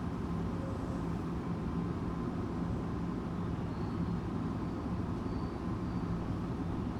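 Tokyu 8500 series electric train running along the line: a steady rumble of wheels on rail with a low steady hum. Faint short high squeaks repeat through the second half.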